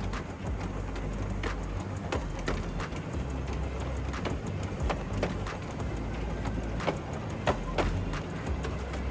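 Miniature steam train running along its narrow-gauge track: a steady low rumble with irregular sharp clacks of the wheels over the rails, heard from aboard.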